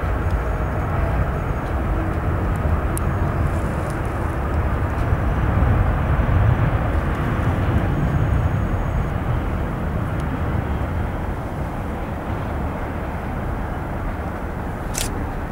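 Boeing 777-300 twin-engine jet at take-off thrust: a deep, steady rumble that swells about six seconds in and then slowly fades. A brief click sounds near the end.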